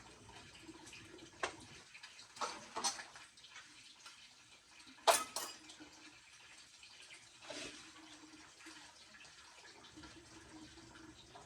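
A few short, light clicks and knocks: two together about five seconds in are the loudest, with single ones near a second and a half, between two and three seconds, and about seven and a half seconds in. Under them is a faint steady hiss.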